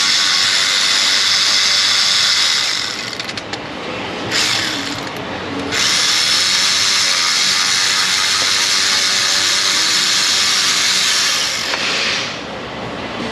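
Cordless power tool running exhaust manifold bolts out, in three runs: about three seconds, a short burst around four seconds in, then a long run of about six seconds.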